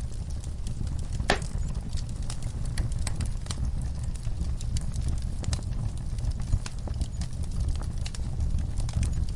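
Wood fire crackling in a fireplace: irregular sharp pops and snaps, one louder pop about a second in, over a steady low rumble of the burning.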